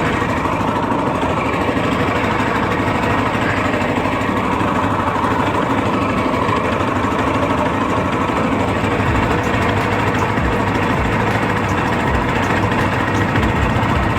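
Predator 224cc single-cylinder four-stroke engine on a longtail mud motor running steadily on throttle, pushing the flat-bottom boat through the water. A few low thumps come in over the last few seconds.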